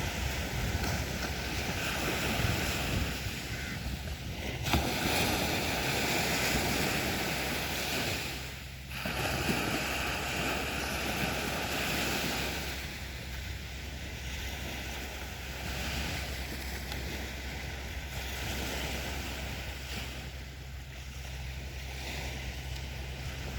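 Sea waves breaking and washing up on a beach. The surf swells louder about a fifth of the way in, dips briefly, then settles to a softer wash for the second half.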